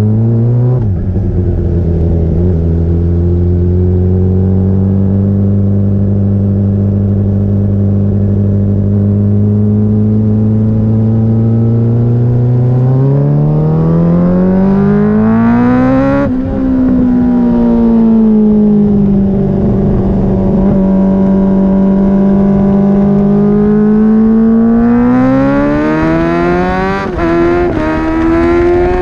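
Onboard sound of a 2021 Honda CBR600RR's inline-four engine, first running steadily at low revs, then revving up and dropping sharply at an upshift about halfway through. It eases off, then pulls hard again with another quick shift near the end, while wind rush comes in over the engine as speed builds.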